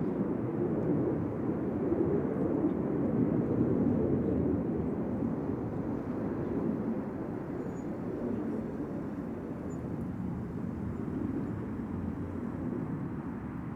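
Jet aircraft engine noise: a low, steady rumble that is loudest in the first few seconds and then slowly fades.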